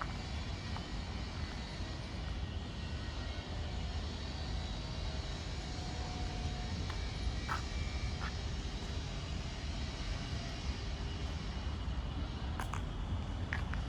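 Steady low rumble and hiss of city traffic, with a few faint clicks.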